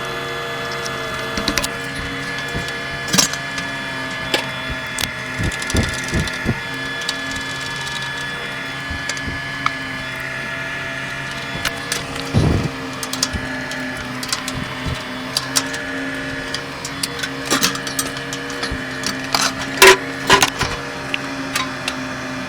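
Steady hum of running HVAC equipment with several steady tones, overlaid by scattered knocks and clatters of metal panels and tools being handled, loudest about twenty seconds in.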